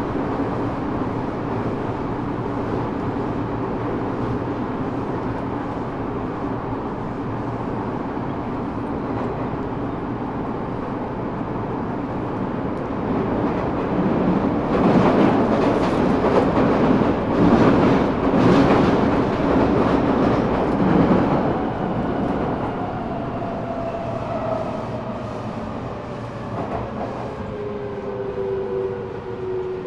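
Eidan 6000 series subway car running in the tunnel, heard from the car floor: steady wheel and track rumble that grows louder about halfway through. In the last third the high-pitched Mitsubishi three-level VVVF inverter (transplanted from a 7000 series car) sets in as several whining tones falling in pitch, the sound of the train braking.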